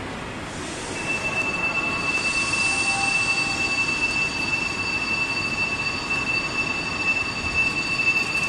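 A high-speed electric train standing at the platform gives off a steady high-pitched whine that starts about a second in and holds level, with fainter steady tones above and below it over station noise.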